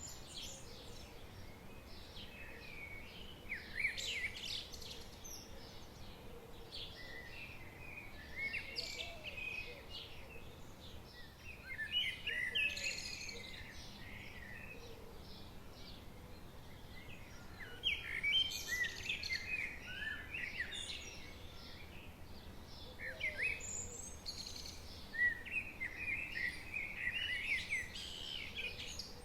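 Songbirds singing in a woodland: short phrases of chirps and warbles come every few seconds over a faint, steady background hiss.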